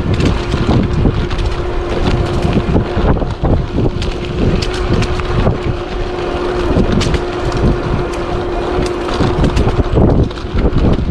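Wind rumbling on the camera microphone as an e-bike rides along a leaf-covered woodland trail. The tyres roll over the ground with many small clicks and crackles, and a steady whine from the e-bike's electric motor holds one pitch throughout.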